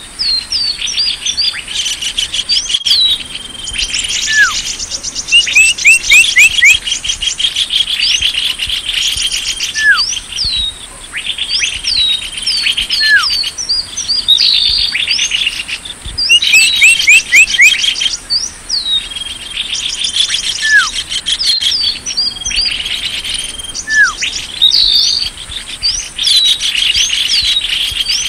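Lure recording of small birds calling, several at once: fast chirping trills and many short falling whistle notes, with a lower down-slurred whistle repeating every two to three seconds. A mixed call track of the kind played to draw small birds in.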